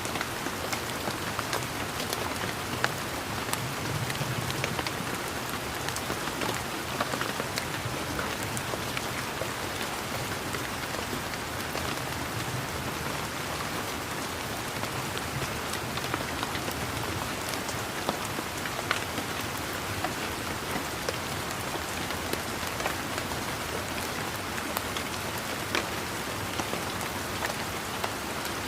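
Steady rain falling, with many separate drops striking close by against an even wash of rainfall.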